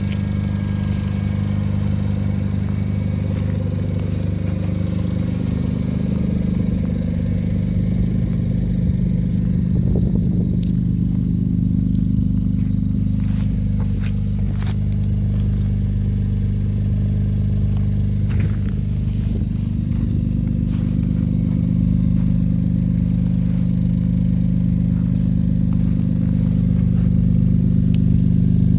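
BMW 335i's N54 twin-turbo straight-six running warm at idle through a catless exhaust with an aftermarket cat-back: a steady low exhaust drone, wavering slightly in pitch midway.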